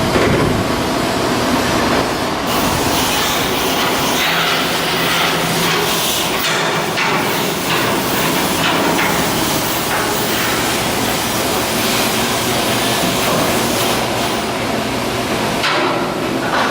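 Loud, steady shipbuilding work noise: machinery running as a continuous rush with a low hum, broken by a few sharp metallic knocks.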